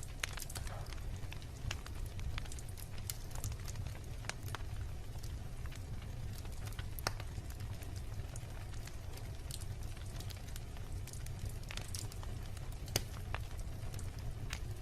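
Wood bonfire burning steadily, with scattered sharp crackles and pops over a low, even rumble of flame; two louder pops come about 7 and 13 seconds in.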